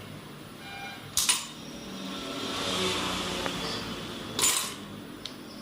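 Two sharp metal clanks of tools and parts being handled while a motorcycle engine is taken apart, about three seconds apart, with a soft rushing noise between them.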